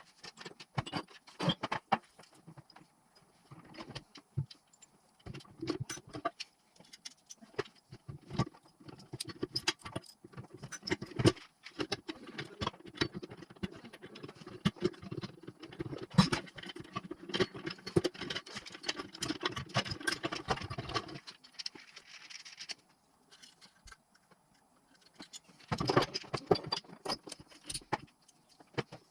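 Metal tools and engine parts clinking and clicking against each other as a Honda CBF 250 engine is assembled by hand, with a denser run of rapid clicking in the middle and a short lull near the end.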